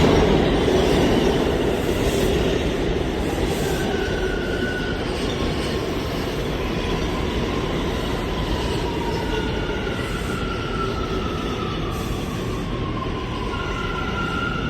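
New York City subway train running on the rails with a steady rumble, loudest at first and easing slightly, and faint wheel squeals that come and go from about four seconds in.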